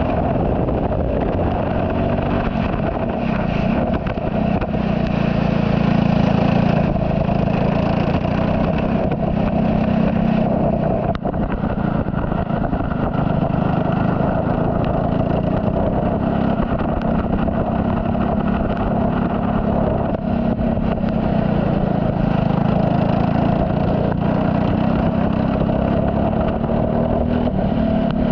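Turbocharged Saab 9-3 race car's engine running hard through a lap, its note swelling and easing every few seconds as the driver accelerates and lifts.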